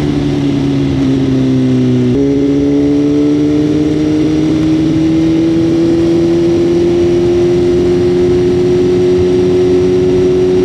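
BMW motorcycle engine running while riding, over a steady rush of wind noise. The engine note sags for about two seconds, steps as a gear changes, then climbs slowly as the bike pulls up through the gear.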